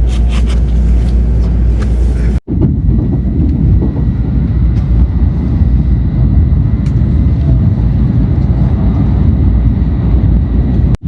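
Shinkansen bullet train running at speed: a steady low rumble with a faint high whine above it. The sound drops out for an instant about two and a half seconds in.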